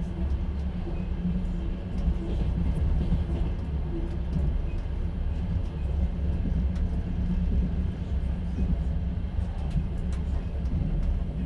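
Steady rumble of a moving passenger train heard from inside a platzkart sleeper carriage: the wheels running on the rails, with faint scattered clicks and rattles.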